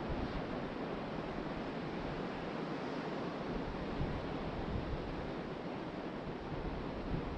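Ocean surf washing steadily onto the beach, with wind buffeting the microphone in uneven low gusts.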